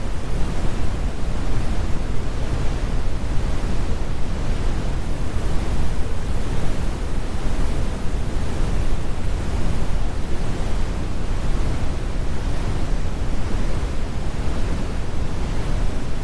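Brown noise, synthesised: a steady, deep rumbling hiss with its weight in the bass and the highs rolled off, without any change.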